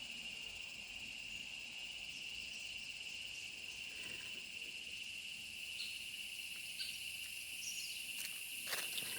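Forest insects calling in a steady, continuous high-pitched chorus, with a few short chirps over it and a couple of faint clicks near the end.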